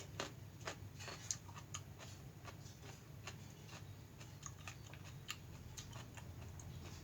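Close-miked eating sounds of someone eating instant mixed noodles: irregular small clicks and smacks of chewing and mouth noises, over a steady low hum.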